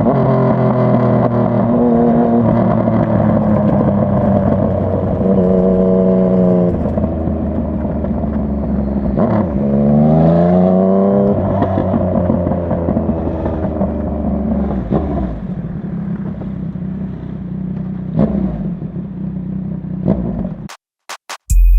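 Yamaha MT-09's inline three-cylinder engine running on the road, holding steady revs with small steps, then revving up in one rising sweep about halfway through before settling back to lower revs. The sound cuts out suddenly near the end.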